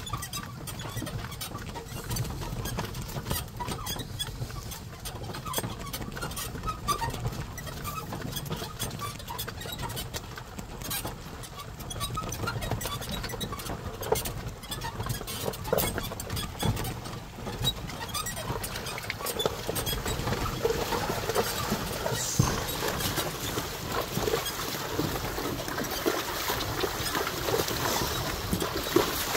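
Carabao-drawn cart on a rough track: a continuous rumble with scattered knocks and clattering throughout.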